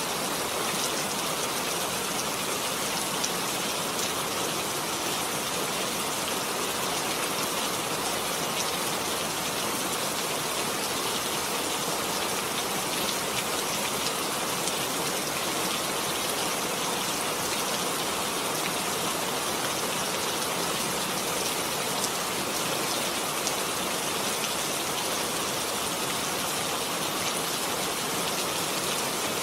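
Heavy rain falling steadily, a dense even hiss of drops with fine drop patter throughout.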